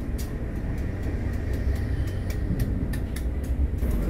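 Cabin noise inside a moving passenger train coach: a steady low rumble of the running gear, with frequent light clicks and rattles.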